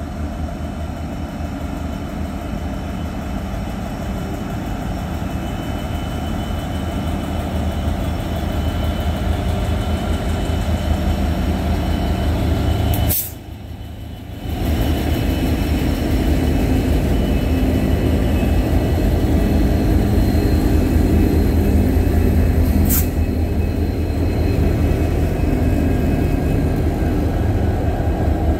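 Freight train hauled by several diesel locomotives passing close by: a deep engine rumble that grows louder as the locomotives approach, a brief drop about halfway through, then the locomotives and wagons rolling past loudly.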